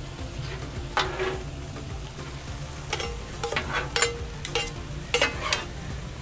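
Shredded cabbage and ground pork sizzling on a hot flat-top griddle while a metal spatula and tongs toss them. The utensils scrape and clack against the griddle top several times.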